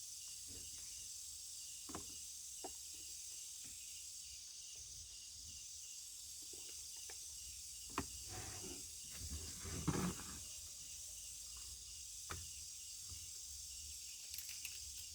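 Steady high hiss of an insect chorus with a faint pulsing trill, broken by a few soft clicks and knocks; the loudest are a sharp click about eight seconds in and a short clatter around ten seconds.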